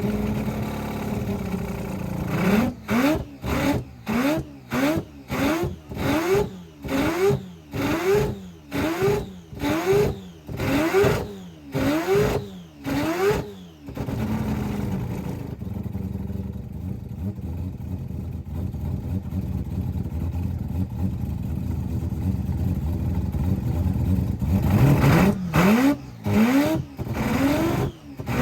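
Rotary engine idling, then revved in quick stabs of the throttle, each rev rising sharply in pitch and dropping off, about one a second for some ten seconds. It settles back to a steady idle, then is revved in stabs again near the end.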